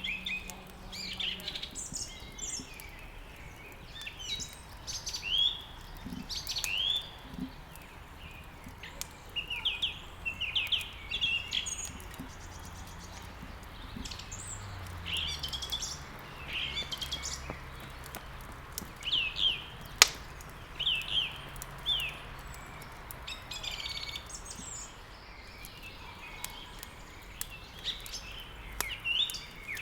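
Songbirds chirping and trilling in many short overlapping phrases, over the light crackle of a wood fire, with one sharp pop about twenty seconds in.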